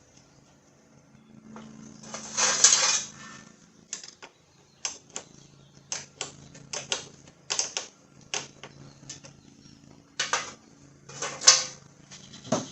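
Metal hand tools and small hardware clicking and clacking, with two longer rattling bursts, while battery terminal bolts and nuts are fastened. A low steady drone of distant lawnmowers runs underneath.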